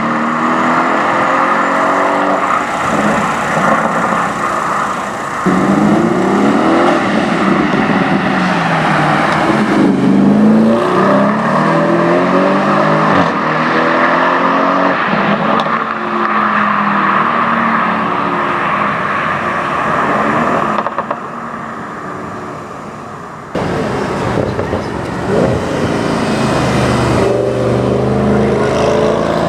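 Audi RS6 engines revving and accelerating hard, the pitch climbing and dropping again and again through gear changes. The sound changes abruptly several times, as between separate cars or passes.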